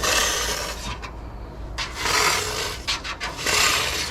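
Aerosol spray-paint can spraying in three short bursts of hiss, about a second apart, coating the inside seams of a car body panel.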